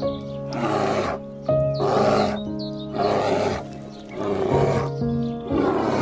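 Brown bears growling, about five rough growls a second or so apart, over background music with long held notes.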